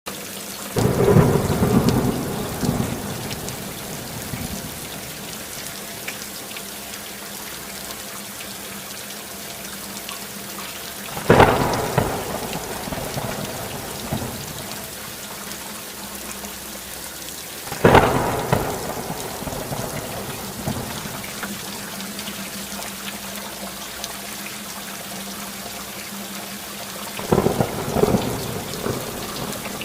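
Steady heavy rainfall with thunder. There is a rumble about a second in, sharp cracks that roll off into rumbling about a third of the way through and again just past halfway, and another rumble near the end.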